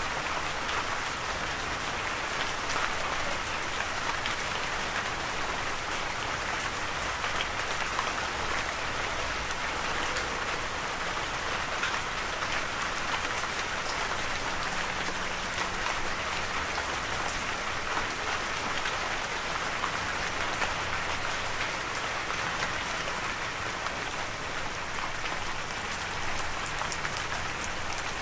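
Steady rain pattering on a surface, a dense even hiss of many drops with fine individual drop ticks.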